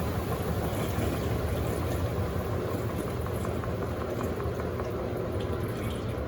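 Electrolux Turbo Compacta 7 kg top-loading washing machine running steadily with a low hum, water rushing out as it drains.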